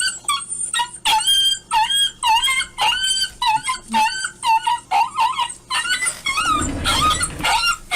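A sound-effect recording of a dog crying in pain, played through computer speakers: a rapid run of short, high yelps and whimpers, about two or three a second.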